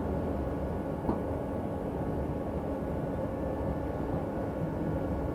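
Steady rumble of a passenger train running, heard from inside the carriage, with a faint steady hum and one light knock about a second in.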